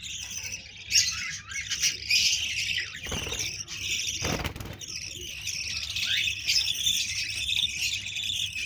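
A flock of small pet parrots chirping and chattering continuously, with a short rustling noise between about three and four and a half seconds in.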